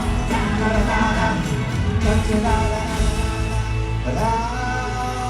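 Live concert music: a band playing a slow pop song while a sung melody carries over it.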